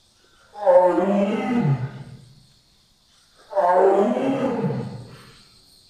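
American bison bellowing: two long, deep, roar-like bellows about three seconds apart, each sinking lower in pitch at its end.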